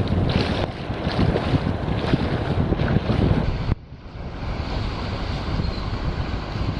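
Wind buffeting the microphone over the rush and splash of water around a small boat. About four seconds in, the sound drops suddenly to a quieter, steadier rush.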